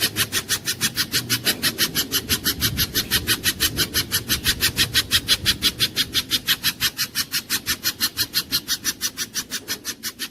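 A spiderhunter (pijantung) giving a fast, even series of sharp chipping notes, about seven a second, which grows fainter near the end.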